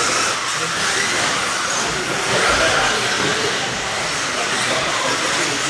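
RC stadium trucks racing around the track: a steady, hiss-like mix of their motors and tyres with no clear pitch.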